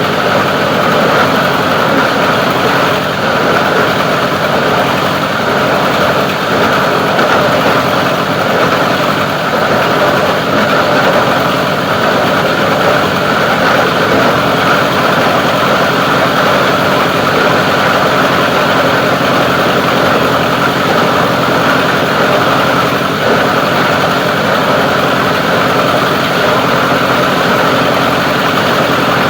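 Plastic recycling grinder running steadily, a continuous even machine noise with no let-up.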